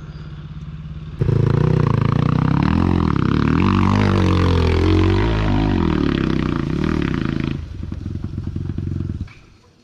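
Enduro motorcycle engine being revved hard, its pitch repeatedly rising and falling, as the bike is ridden under load. It gets loud about a second in, eases off about two seconds before the end, and stops shortly before the end.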